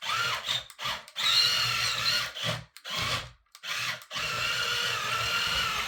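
Toy RC tank's small electric drive motors and gearboxes whining in stop-start bursts: several short runs, then a longer steady run over the last two seconds.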